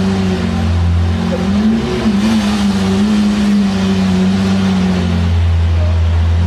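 Lamborghini Aventador's V12 engine running at steady, moderate revs, its pitch wavering slightly.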